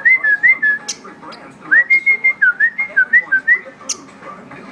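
A whistled tune of quick rising and falling notes: a short phrase at the start, then a longer one from about two seconds in. Sharp little clicks are scattered through it.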